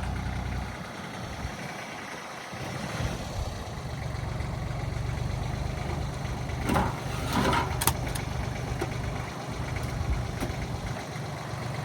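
An engine idling steadily with a low rumble, with a brief gliding squeak and a few sharp clicks about seven seconds in.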